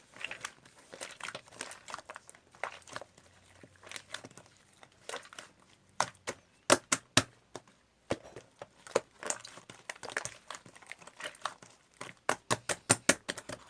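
Slime being squished and pressed by hand, giving irregular sharp pops and clicks, with a quick run of pops near the end.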